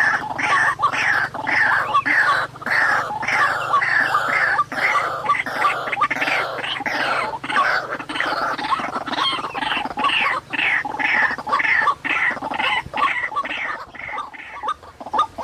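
White-breasted waterhen (ruak-ruak) calls, a rapid, unbroken run of harsh repeated notes about two a second, with a faint low hum underneath that stops near the end.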